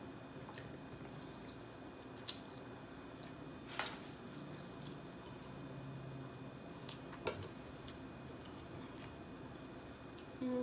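Close-miked chewing of fried chicken: a handful of soft wet mouth clicks and smacks scattered over a faint steady room hum.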